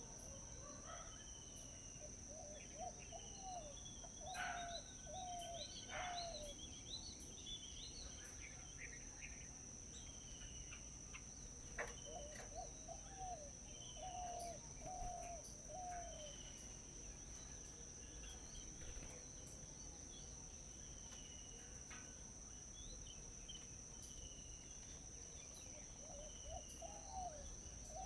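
Wild birds calling: a short run of four or five quick low notes that comes back three times, with thin higher chirps in between. Under them runs a steady high-pitched insect buzz.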